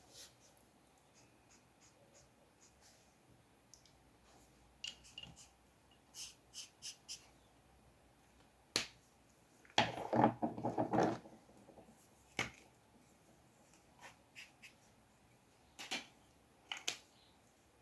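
Drawing at a desk: scattered light taps and clicks of a pen and paper, with a short burst of scratching and rustling about ten seconds in.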